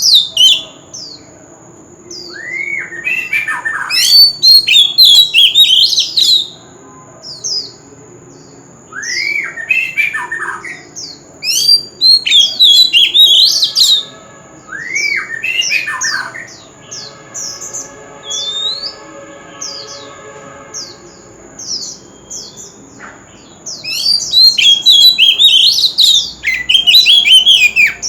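Oriental magpie-robin singing loud bursts of rich, varied whistled phrases with quick sweeping and falling notes, separated by short pauses. A thin, steady high-pitched tone runs behind the song.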